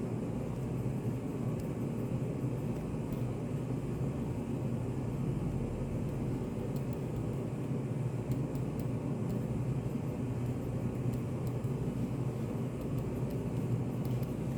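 Study café room ambience: a steady low hum, like ventilation running, with faint scattered ticks here and there.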